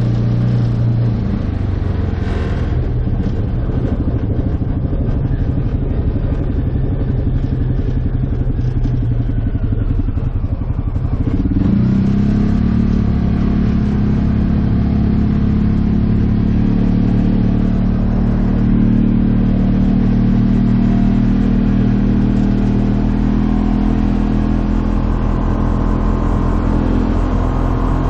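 Freshly rebuilt 2015 Polaris Ranger 570 UTV's single-cylinder engine running while the machine is driven, climbing in pitch about eleven seconds in as it speeds up, then holding a steady higher pitch.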